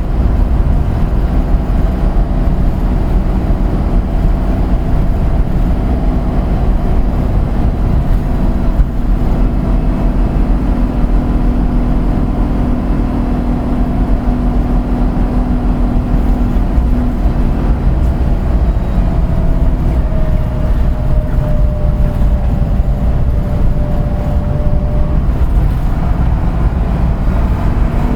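Route bus engine and drivetrain running steadily under way: a loud, continuous low rumble with a whine on top that drops slightly in pitch about twenty seconds in and fades a few seconds later.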